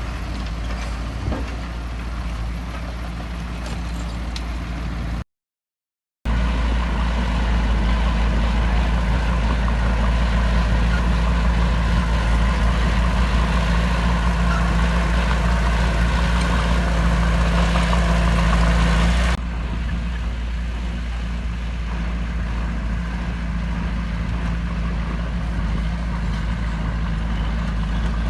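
Heavy diesel earthmoving machinery running steadily. It drops out for about a second five seconds in, comes back louder, then falls abruptly to a lower level about two-thirds of the way through.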